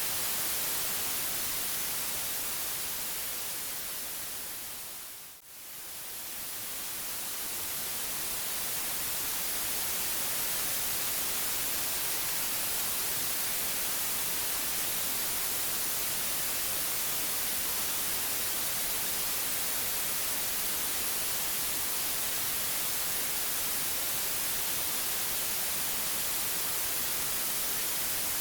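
Steady electronic white noise, a bright even hiss. It fades down to a brief near-silent dip about five seconds in, then swells back to full level over the next few seconds.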